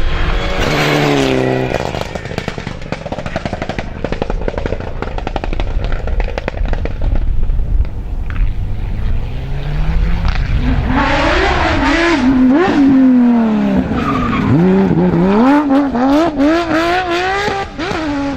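Rally cars at full speed on a stage. In the first two seconds one engine's note falls away. From about ten seconds in another car approaches, its engine revving up and down repeatedly through gear changes and throttle lifts.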